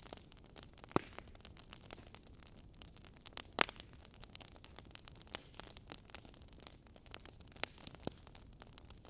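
Wood fire crackling in a fireplace: a stream of small ticks and snaps over a low hiss, with sharper pops about a second in and about three and a half seconds in.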